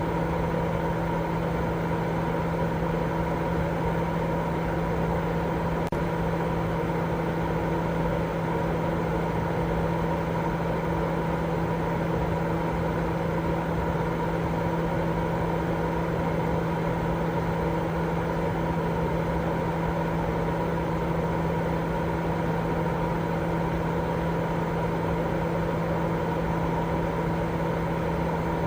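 Continuous white noise for baby sleep: a steady, unchanging rushing sound with a low hum running through it.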